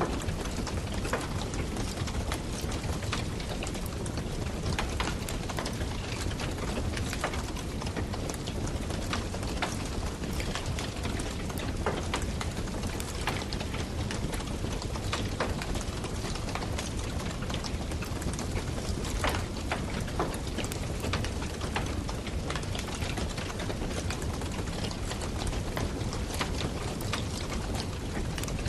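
Campfire crackling: a steady hiss of burning wood with frequent, irregular sharp pops and snaps.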